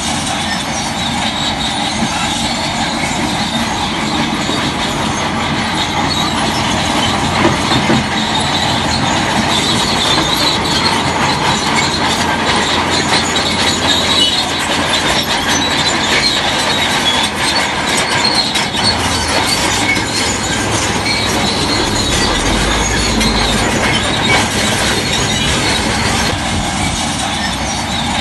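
Shantui DH17C3 crawler bulldozer at work: diesel engine running under load, with the steel tracks squealing and clanking.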